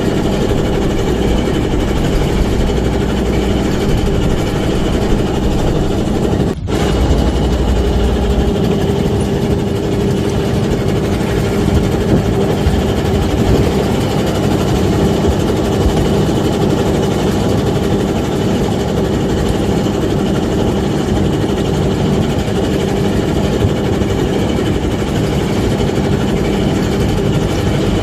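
Engine of a small fishing boat running steadily with an even, droning hum. It breaks off for an instant about six and a half seconds in.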